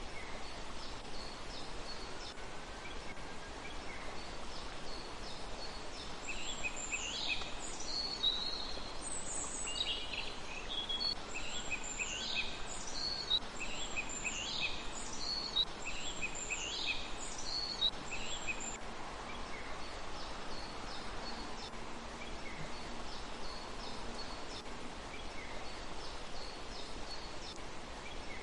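Small wild birds calling over a steady background hiss: faint repeated short high chirps at first, then a louder run of quick, bent, high notes repeated over and over from about six to nineteen seconds in, fading back to faint chirps.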